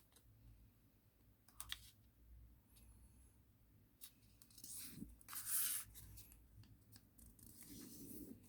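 Origami paper being folded and creased by hand: faint rustling with a few crisp crackles, and a louder swish of paper about five and a half seconds in.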